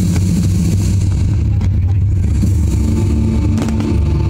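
Fireworks display: aerial shells bursting in a continuous low rumble, with a few sharper cracks about a second and a half in and again near the end.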